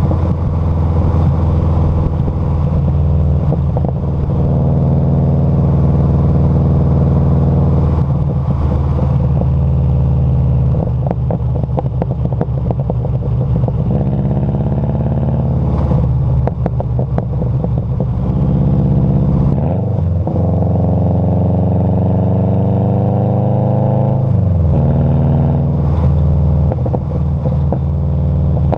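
Vehicle exhaust heard close to the tailpipe, the engine running continuously under way with its pitch shifting as speed changes, and a clear drop in pitch late on. Rattly stretches come and go.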